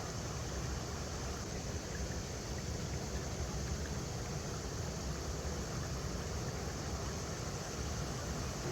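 River water flowing over rocks: a steady, unbroken rush with a deep rumble underneath.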